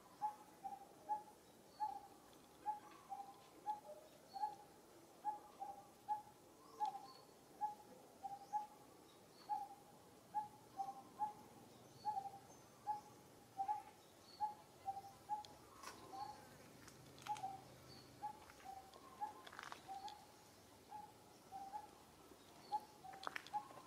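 A bird repeating one short low note about twice a second, steadily and without pause, with fainter high chirps from other birds and a few small clicks.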